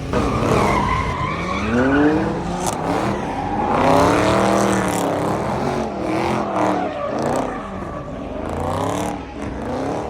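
A car engine revving hard several times, its pitch climbing and falling with each rev, over a steady rushing noise.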